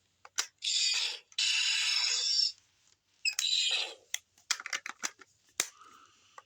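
Hard plastic toy parts being handled: three scraping bursts in the first four seconds, then a quick run of sharp clicks.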